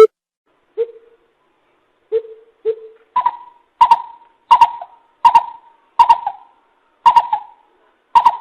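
Coucal (bìm bịp) calling: a few deep, spaced hoots, then a steady series of louder, higher hoots about one every 0.7 seconds.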